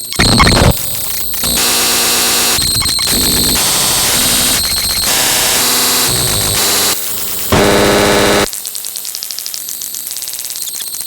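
Loud, harsh electronic static noise that jumps abruptly between different grating textures every second or so. About eight seconds in it gives way to a quieter, rapidly pulsing buzz.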